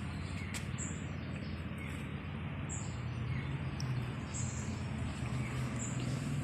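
Birds calling in the morning: a short, very high-pitched note repeated every second or two, with fainter lower chirps, over a steady low hum.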